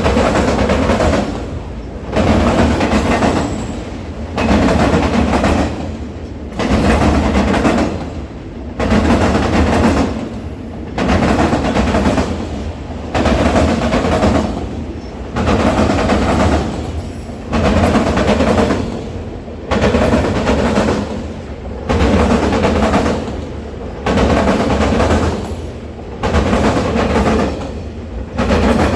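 A train's cars rolling past, the wheels clattering over the rail joints in a steady repeating rhythm, about one loud burst every two seconds.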